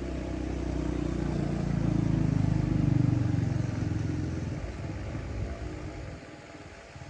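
A vehicle engine running, growing louder to a peak about three seconds in and then fading away, as of a vehicle driving past. A short knock comes near the end.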